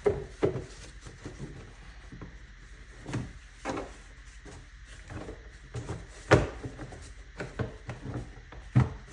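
Knocks and clicks of a Volkswagen Tiguan's plastic engine cover being handled and pressed back into place on its mounts, with one sharp knock about six seconds in.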